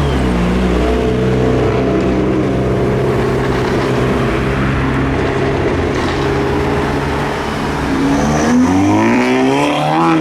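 A car engine running steadily close by, then revving up near the end, its pitch rising as it accelerates away.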